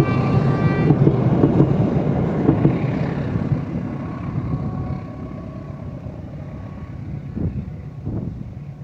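A locomotive-hauled train rumbling past and fading away. A short high chord of steady tones rings in the first second.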